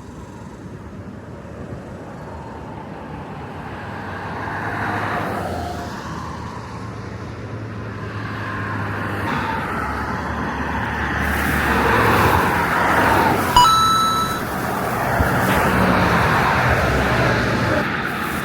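Road traffic: vehicles passing by, the noise swelling as they approach and go past, loudest about twelve to fourteen seconds in. A brief high tone sounds near the loudest point.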